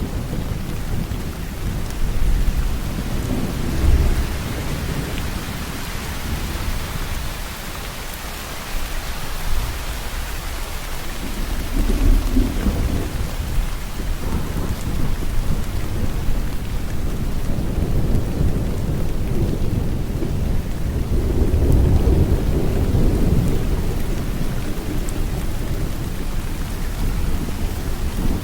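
Steady heavy rain falling, with low rolling rumbles of thunder swelling about four seconds in, again about twelve seconds in, and in a longer spell in the second half.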